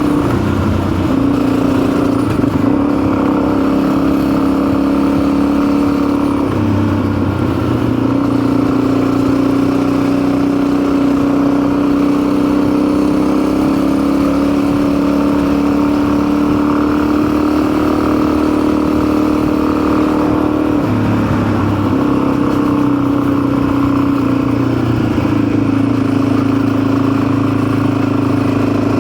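Motorcycle engine running steadily under way. Its note drops and settles at a new pitch about a second in, again around seven seconds in and around twenty-one seconds in.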